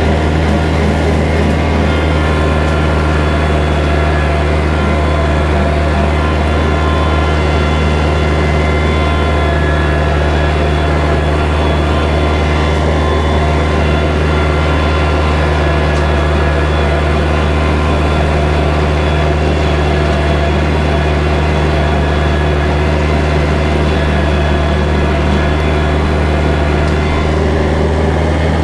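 Kubota tractor's diesel engine running steadily at constant throttle while bush hogging with a rotary cutter, a loud even drone.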